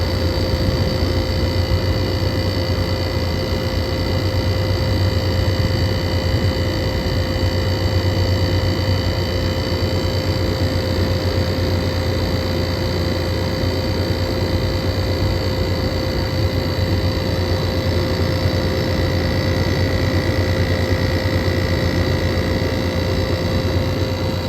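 Air conditioner outdoor unit running steadily: a strong low hum with a fan's rush and several steady high whining tones.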